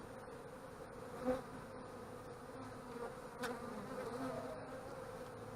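Honeybees buzzing steadily over an opened hive, with a sharp knock about a second in and a lighter one a couple of seconds later.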